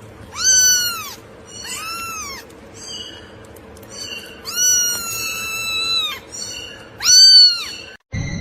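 A cat meowing over and over: about five meows that rise and fall in pitch, one of them long and drawn out about halfway through.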